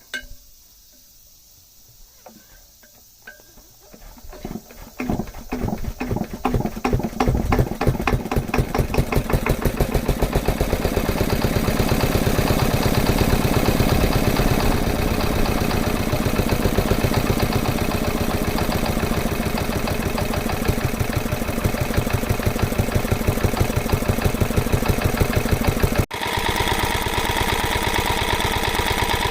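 Yanmar K3 single-cylinder diesel stationary engine starting: a few clicks, then slow, separate firing strokes from about four seconds in that quicken as it comes up to speed and settle into steady running. Near the end the sound breaks off abruptly and resumes with a different tone, the engine still running.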